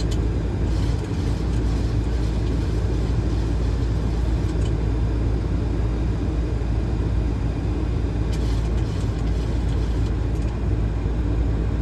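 Boeing 737 flight deck in descending flight: a steady, even rumble of airflow and engine noise, with a few faint brief ticks.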